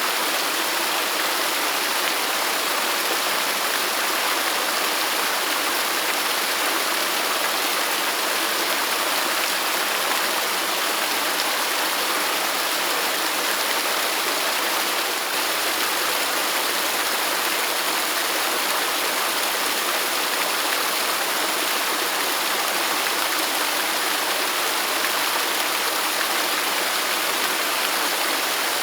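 Waterfall: steady, even rushing of falling water, a hiss without breaks, light in the low end.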